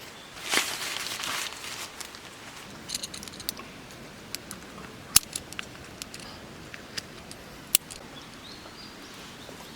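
Handling noises: a brief rustle about half a second in, then scattered sharp clicks and light taps.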